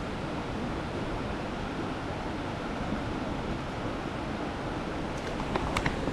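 Mountain stream water rushing steadily, with a few sharp clicks near the end.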